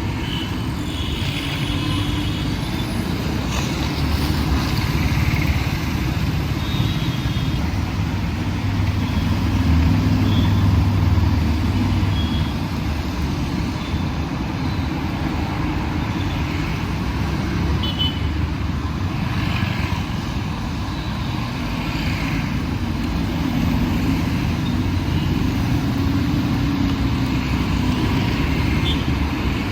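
Busy road traffic: vehicle engines and tyres making a steady rumble, swelling as heavier vehicles pass, with a few short high beeps near the start and end.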